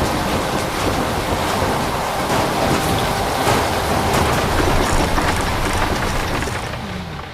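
Heavy storm rain pouring, loud and steady as a dense hiss, easing off near the end.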